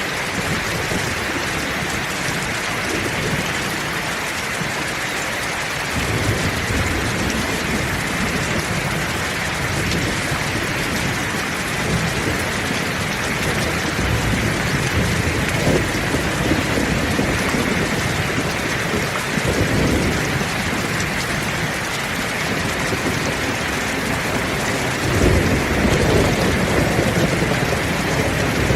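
Heavy rain falling steadily in a dense hiss, with low rolling thunder that sets in about six seconds in and swells again several times, loudest near the end.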